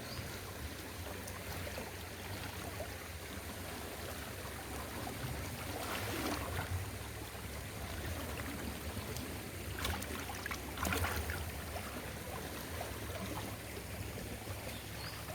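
Floodwater flowing steadily, with a few splashes about six and eleven seconds in as someone wades through it.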